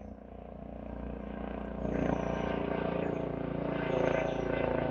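Air ambulance helicopter approaching, its engine and rotor drone growing steadily louder.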